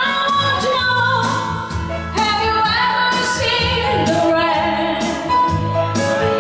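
A woman singing a pop song cover in English over instrumental accompaniment with a steady bass line.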